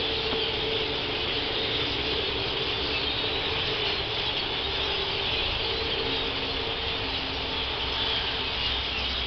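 A huge flock of blackbirds calling all at once: a dense, steady wash of many overlapping calls.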